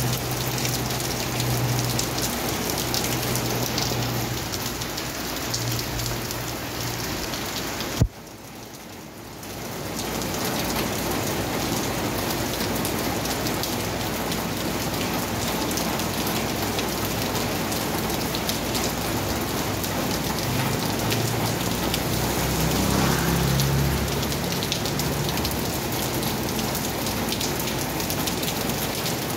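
Heavy rain pouring steadily onto a wet street and pavement. About eight seconds in, a sharp click is followed by a couple of seconds of quieter rain. A faint low hum runs under the rain near the start and again a little past twenty seconds.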